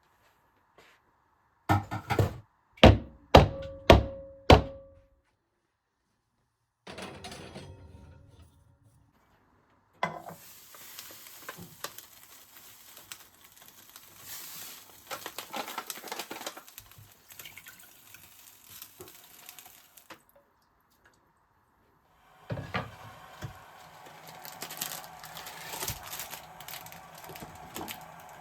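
Kitchen work sounds: about five sharp knocks in quick succession, one leaving a short ringing tone, then long stretches of a light hissing noise scattered with small clicks and clatter.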